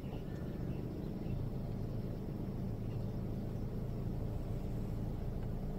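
A car engine idling with a steady, even low hum.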